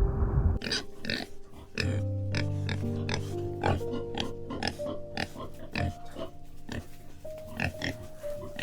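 An animal making short, rough grunting sounds, a few each second, over gentle background music with long held notes. A low rushing noise stops abruptly about half a second in.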